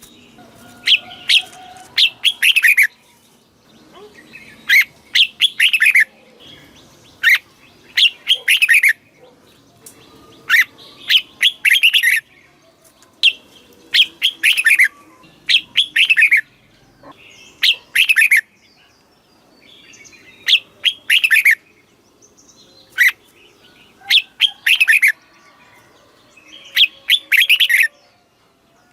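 Red-whiskered bulbul singing: short, loud phrases of quick whistled notes that sweep downward, repeated every second or two with brief pauses between.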